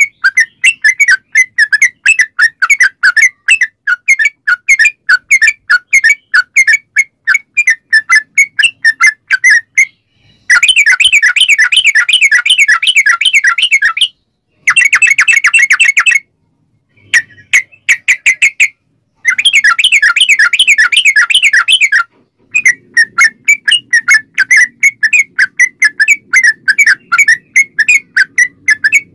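Yellow-vented bulbul (trucukan) singing: a long series of quick, bubbly chirped notes, a few each second, then fast continuous rolling runs (ropel) cut by short silences, then back to separate notes.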